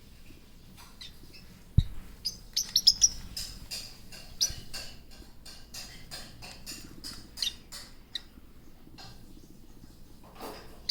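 Small pet parrots chirping, a rapid run of short, high chirps that is busiest in the first half, with one dull knock about two seconds in.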